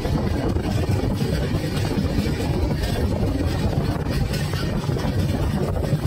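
Gomti Express passenger train running along the track, a steady loud rumble of the coach and wheels on the rails.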